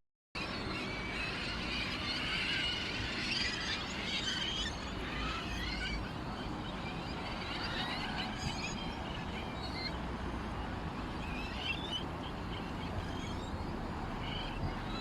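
A chorus of small birds chirping and twittering, many quick overlapping calls at once, starting after a short dropout of silence.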